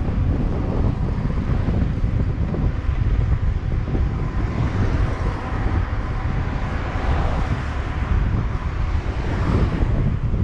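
Wind buffeting the microphone while riding a bicycle: a loud, gusty low rumble, with a rushing hiss that swells about midway and fades near the end.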